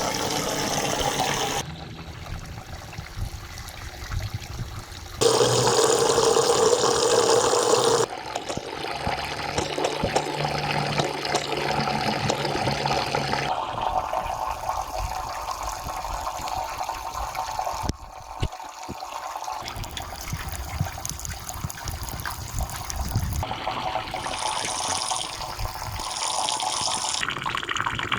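Running and pouring water, in a series of short clips cut together so that the flow's sound changes abruptly every few seconds; loudest for a few seconds about a fifth of the way in.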